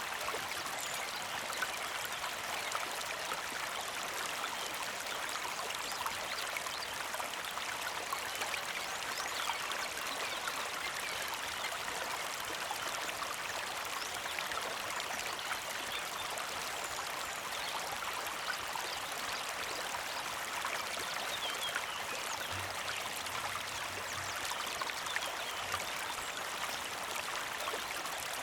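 Small creek flowing steadily, a constant trickling rush of water over stones.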